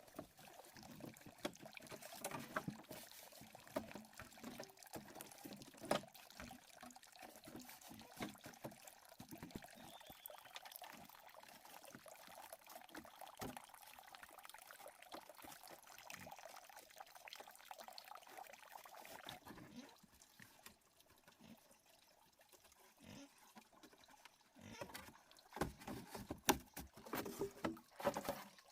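Faint trickling water mixed with many small scattered clicks and knocks, with a cluster of louder knocks near the end.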